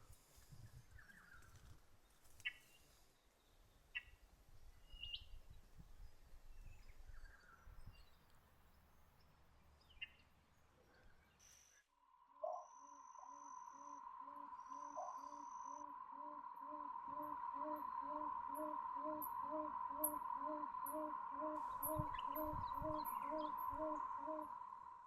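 Faint scattered bird calls at first. Then, after a cut about halfway, a tawny frogmouth's low 'oom' call repeats about twice a second over a steady high drone.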